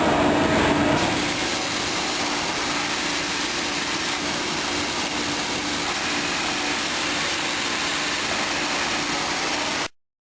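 Machinery of a CNC machining cell running: a steady mechanical hum and noise with a low held tone, a little louder in the first second, cut off abruptly near the end.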